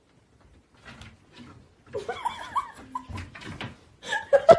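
A cat clambering down the door of a wooden wardrobe: faint scrabbling, then several short calls that rise and fall, and a sharp knock near the end.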